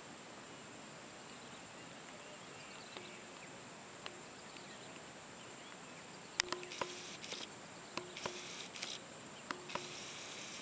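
Insects chirping over a steady hiss. From about six seconds in come a run of sharp clicks and short rasping buzzes.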